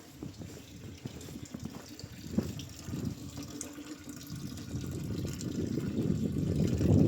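Water running and splashing, growing steadily louder toward the end.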